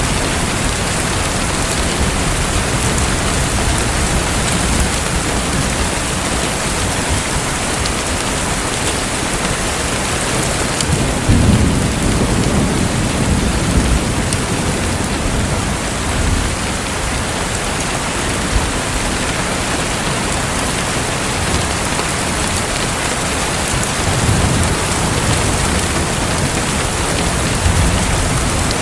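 Steady rain-like water noise, an even hiss with no pauses, with a few low rumbles rising and falling under it, the strongest about eleven seconds in.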